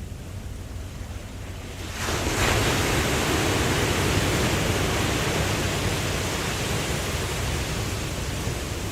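Ocean wave breaking about two seconds in: the hiss of surf swells suddenly and then slowly fades, over a steady low noise of the sea.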